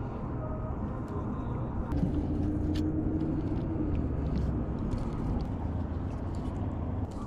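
Steady low rumble of a motorized kayak under way, its motor running with wind noise on the microphone, and a faint hum rising briefly about two seconds in.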